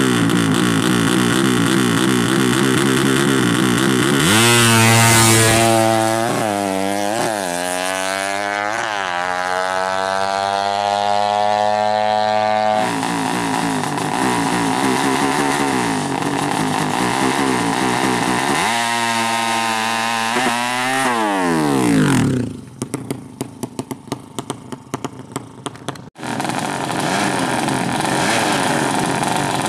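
A 200cc motorcycle engine being revved: several quick blips, then a long climbing rev that drops back, and more blips later. Near the end its note cuts out for a few seconds, leaving only scattered crackles, before it is running again.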